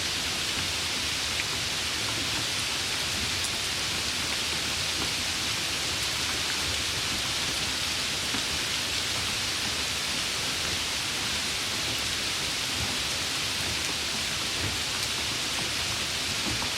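Steady rain falling, an even unbroken hiss with scattered faint drop ticks.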